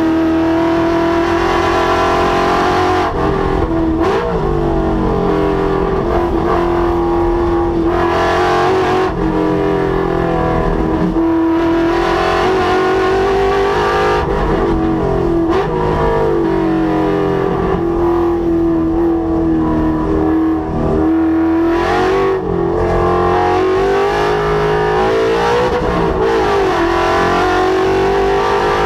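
Ford Coyote 5.0 V8 engine of a track-driven Mustang running hard at speed. Its note keeps climbing and dropping, again and again, as it accelerates, shifts and slows through the corners.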